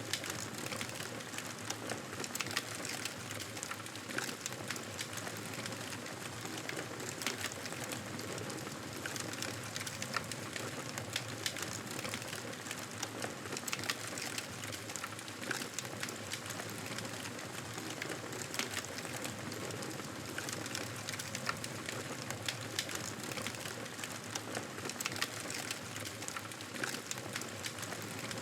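Fireplace fire crackling: a steady hiss with frequent small sharp pops and crackles.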